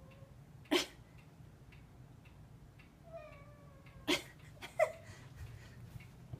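A house cat whining at birds it has seen outside: a few short, sharp cries a few seconds apart, with a brief falling whine near the middle.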